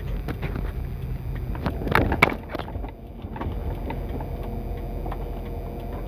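Car cabin noise of a passenger car moving slowly on a concrete road: a steady low engine and tyre rumble, with a short cluster of sharp knocks about two seconds in.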